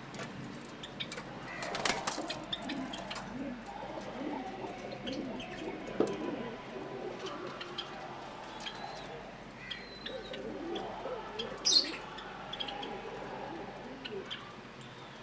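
Pigeons cooing repeatedly, with a flutter of wings about two seconds in and a loud high bird chirp near the end.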